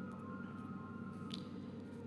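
Faint steady background hum with a thin, high, steady tone and a few faint ticks: room tone.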